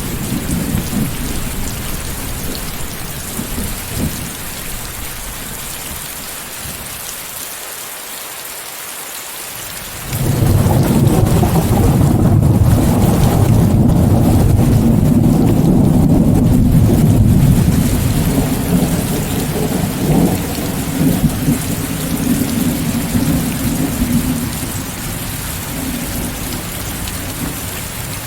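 Steady rain hiss of a thunderstorm, mixed with white noise. A low rumble is dying away at the start. About ten seconds in, a loud roll of thunder breaks in suddenly, rumbles for several seconds, then fades out toward the end.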